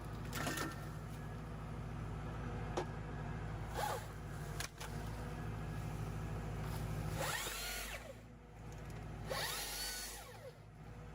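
Tractor engine running steadily while driving a tractor-mounted Hypro 755 harvester-processor, with scattered snaps and knocks. Twice near the end, a few seconds apart, a brief whine rises and falls.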